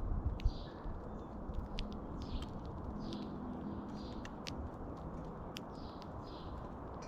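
Small birds giving short chirps every second or so, with scattered sharp ticks, over a steady low rumble.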